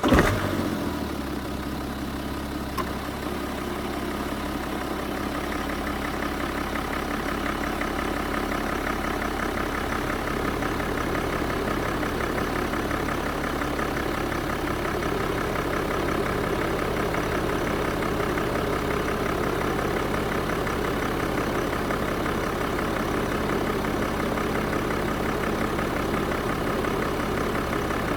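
BMW N57D30A 3.0-litre twin-turbo straight-six diesel in a 2011 F10 5 Series, flaring briefly just after starting and then settling to a steady idle.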